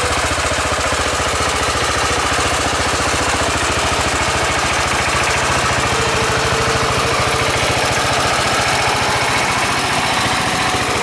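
Small engine of a homebuilt tractor running steadily as it drives along, with a rapid, even chugging pulse.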